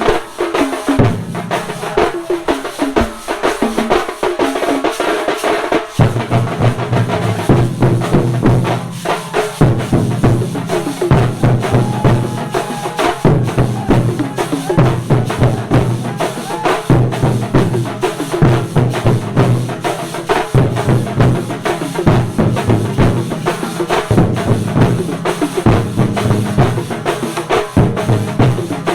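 A drum ensemble playing a fast, continuous rhythm, with deeper drum strokes coming in about six seconds in and pulsing regularly from then on.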